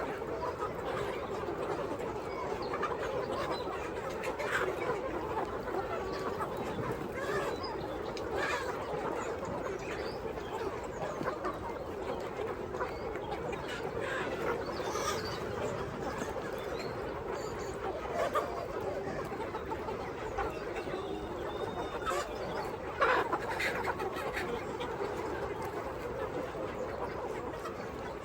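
A flock of chickens clucking continuously, with many short calls overlapping and a few sharper squawks standing out.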